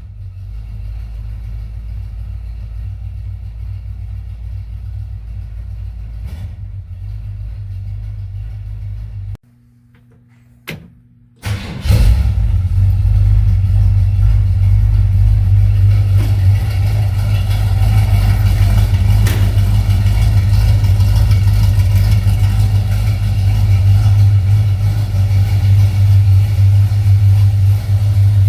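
1966 Chevrolet C10 pickup engine idling on a cold start after long sitting; about nine seconds in it cuts out, and a couple of seconds later it is running again, louder and steady.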